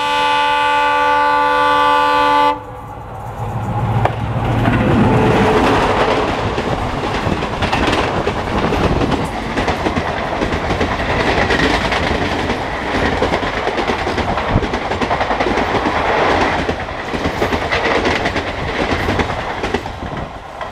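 WDM-3D diesel-electric locomotive (ALCO 16-cylinder engine) passing at high speed: a long multi-tone horn blast cuts off about two and a half seconds in, with the engine running under load, then the express's coaches rushing past with wheels clattering over the rail joints.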